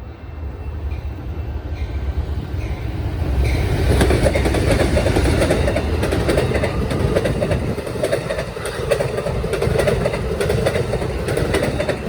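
A train passing close by at speed: a rumble that builds over the first few seconds, then a loud run of wheels clacking over rail joints.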